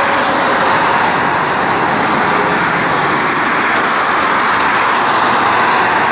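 A train of covered wagons passing close by, giving a loud, steady rolling noise that holds at one level throughout.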